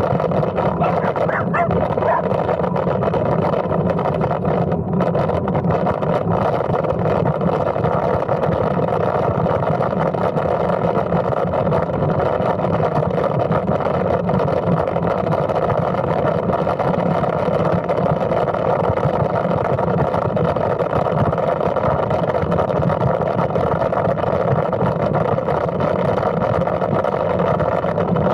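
Steady rushing and rumbling noise at an even level, typical of wind on the microphone and tyre noise while riding a bicycle.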